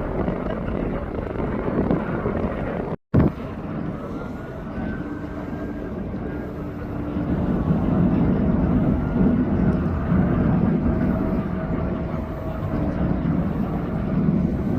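Jet airliner engines running, a steady rushing noise with a steady whine. The sound cuts out for an instant about three seconds in.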